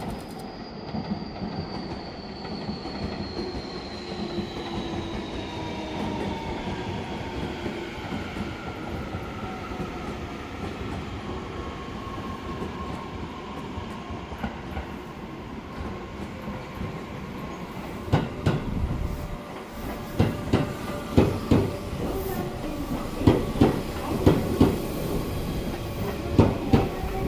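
Tobu 10000 series electric train pulling into a station: a whine of several tones falls steadily in pitch as the train slows, then about two-thirds of the way through a run of sharp knocks starts as the wheels cross rail joints and points.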